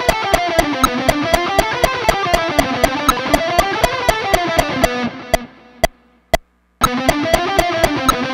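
Distorted electric guitar playing a fast picked riff in mixed meter over the steady click of the Steampunk Metronome app. About five seconds in the guitar stops and a few metronome clicks count in alone, then the riff starts again.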